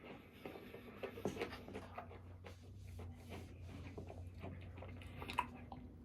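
A person chewing food close to the microphone: irregular wet smacks and clicks of the mouth, with one sharper click about five seconds in.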